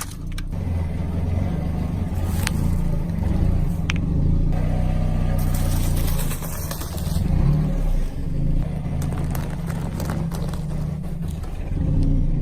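A motor running steadily with a low hum, with a few sharp crunching or scraping clicks over it.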